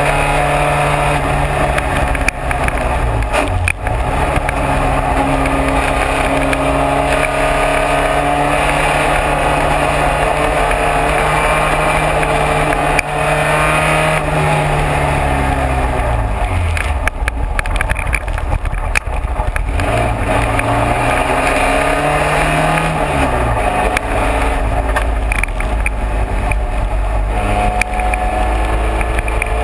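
Classic racing car's engine running hard at speed in the rain. Its pitch climbs and dips through gear changes, falls away from about 14 to 17 seconds in as the car brakes and shifts down, then pulls back up through the gears, over steady road and wind noise.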